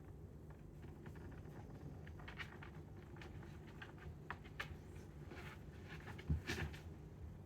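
A sleeping chow chow's soft, irregular clicks and taps, with a louder knock about six seconds in, over a low steady rumble.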